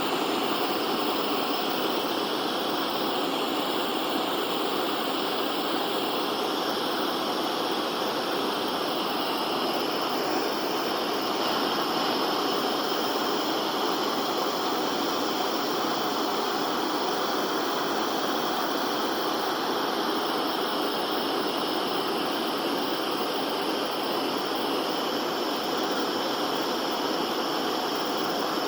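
Torch flame hissing steadily as it heats a dented, air-pressurized two-stroke exhaust pipe to push the dent out.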